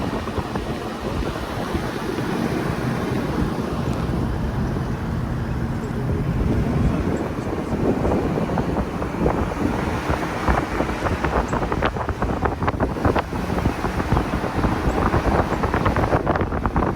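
Wind buffeting the microphone, with a faint low steady hum underneath and a run of sharp clicks and knocks in the second half.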